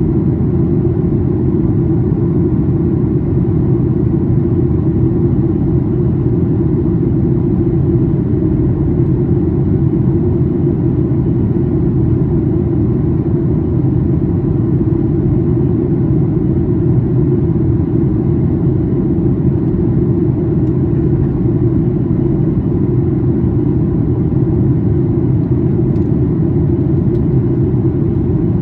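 Steady low cabin roar of a Boeing 737-800 in flight during its descent: CFM56-7B engine noise and airflow over the fuselage heard from a window seat inside the cabin.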